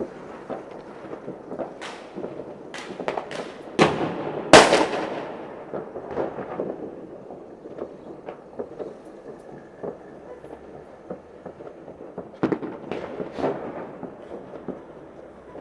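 New Year's fireworks and firecrackers going off all around: a steady crackle of small bangs with sharper reports scattered through. The loudest is a pair of big booms about four seconds in that echo away for a couple of seconds, and another cluster of bangs comes near the end.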